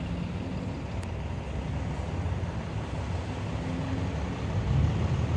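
Road traffic at a railroad grade crossing: cars running, with a vehicle's low engine hum growing louder near the end.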